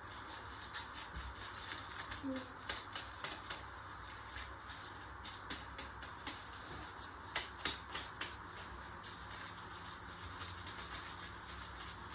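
Washing machine running, with a steady low hum and irregular sharp clicks and knocks from the drum and its belt drive.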